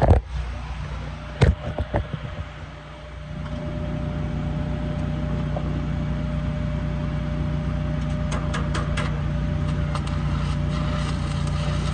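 Stick welding with 7018 rod: the welding machine's steady low drone, which gets louder about three and a half seconds in, under a light crackling haze, with sharp clicks in the first two seconds and a cluster of clicks around eight to nine seconds.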